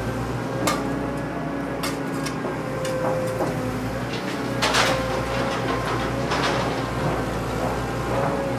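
A handful of short knocks and clicks, the loudest about halfway through, over a steady humming tone.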